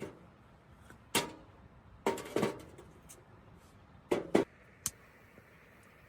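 A series of sharp, short knocks, several in quick pairs, with a faint steady hiss coming in near the end.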